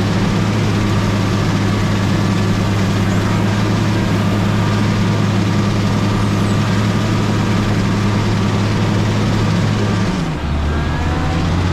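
Motor grader's diesel engine running steadily. About ten seconds in, its note drops to a lower pitch.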